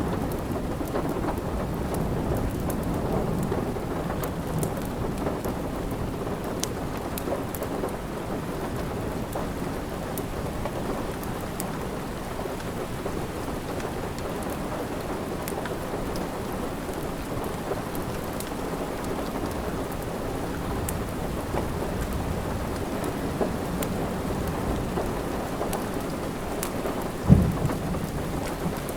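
Steady rain with a low rumble under it, and scattered sharp crackles from a wood fire. One loud, low thump comes near the end.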